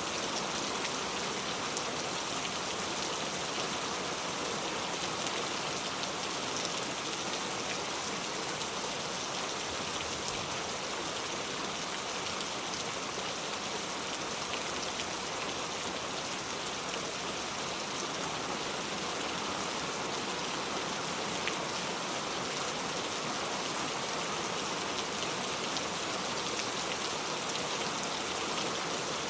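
Steady rain falling, an even hiss with many fine drop patters, without a break.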